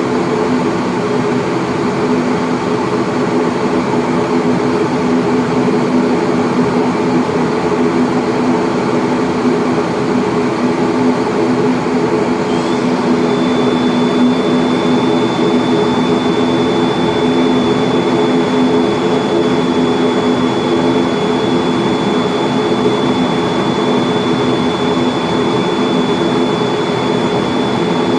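Pratt & Whitney PW127M turboprop engines of an ATR42-600 running at low taxi power, heard as a steady drone from inside the cabin while the aircraft taxis in to its stand after landing. A thin, steady high whine joins about halfway through.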